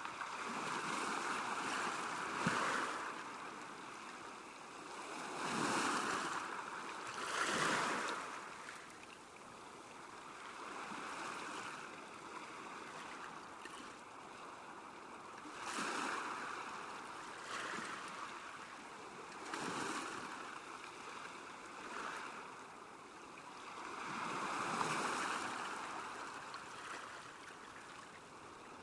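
Small waves lapping at a lake shore: a steady wash of water that swells into a splash every few seconds and fades again.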